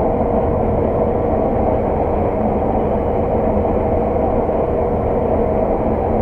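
Steady drone of a Claas Lexion 600 TerraTrac combine working under load, heard from inside its cab, with a constant whine running through it.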